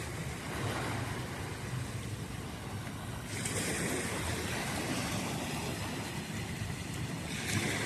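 Sea waves washing onto the shore with wind buffeting the microphone; the hiss of the surf gets stronger about three seconds in and swells again briefly near the end.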